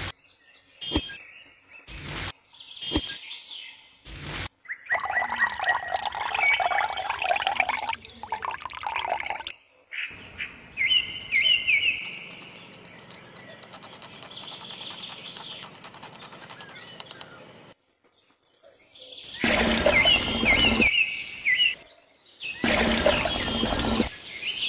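A small metal spoon scraping and clicking in terracotta bowls as dry cement and sand are scooped, then stirred wet, and wet cement slurry is poured onto sand. The sounds come in short segments that start and stop suddenly. Birds chirp in the background.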